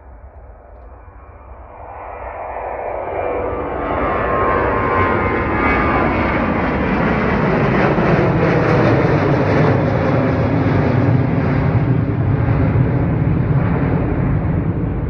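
Jet airliner's engines at take-off thrust, the roar building over the first few seconds as the aircraft passes, then holding loud with a falling whine and easing slightly near the end.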